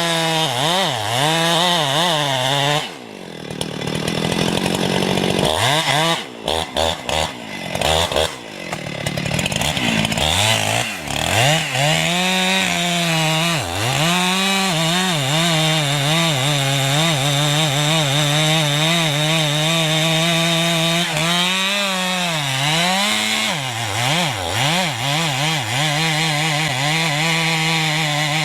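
A small high-revving engine cutting wood. Its pitch dips again and again as the cut loads it and then recovers, and it briefly drops away about three seconds in and falters several times between six and nine seconds.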